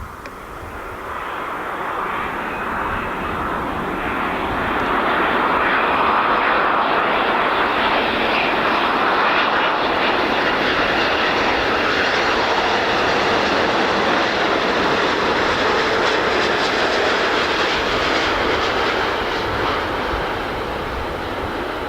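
Boeing 787-8 jet airliner with General Electric GEnx turbofans passing on approach to land: a broad engine and airframe rush that builds over the first few seconds, stays loud through the middle, then begins to fade near the end.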